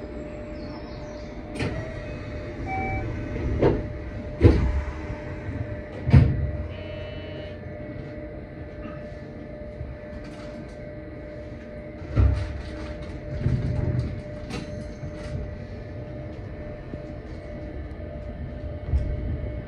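Electric train standing at a station platform: a steady hum with a constant tone, broken by several heavy clunks and thuds, two of them loudest about four and six seconds in.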